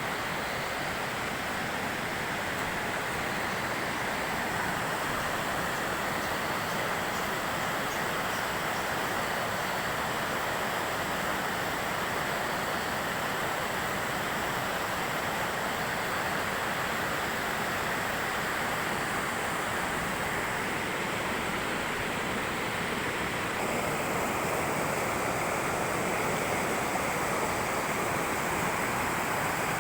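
Steady rushing of a river over a waterfall, a continuous roar of falling water.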